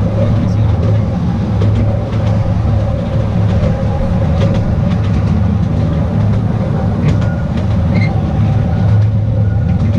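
Artouste narrow-gauge tourist train running along the track: a steady low hum of the running train with scattered light clicks from the wheels and rails.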